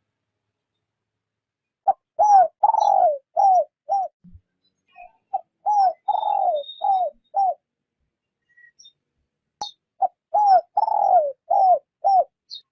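Spotted dove cooing: three phrases a few seconds apart, each a quick run of about five low coos with a longer, falling coo in the middle.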